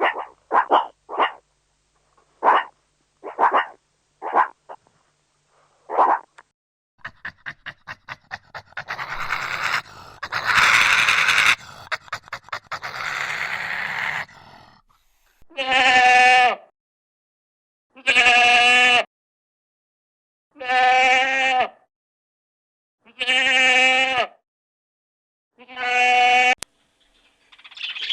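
A sequence of animal calls. First a run of short dog barks, then a stretch of rapid clicking that runs into a rough, noisy sound, then five long, drawn-out bleats from a goat or sheep, evenly spaced about two and a half seconds apart.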